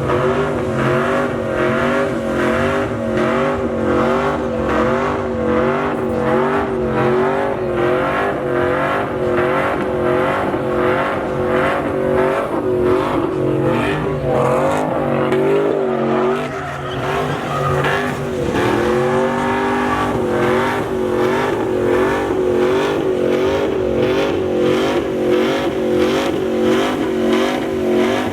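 Pickup truck engine held at high revs during a burnout, its pitch wavering up and down evenly, with tyre squeal. About two-thirds of the way through, the revs drop briefly and climb back.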